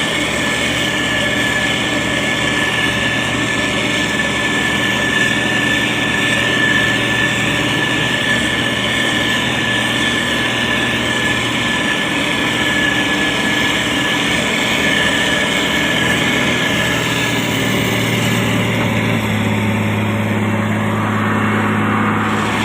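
Diesel engine of a SANY STG190C-8S motor grader running steadily, with a steady high whine over it. The engine note shifts slightly in the last third.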